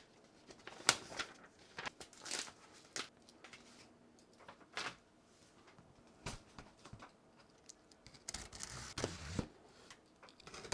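Packaging being handled as a cardboard shipping carton is opened: a plastic invoice envelope and cardboard being pulled and torn. Scattered short rustles and knocks, busier near the end.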